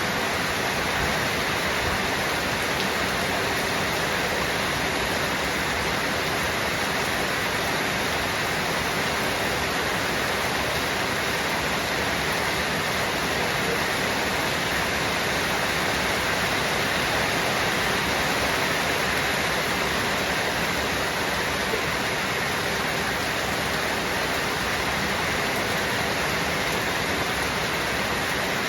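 Steady rainfall: an even, unbroken hiss of rain with no let-up.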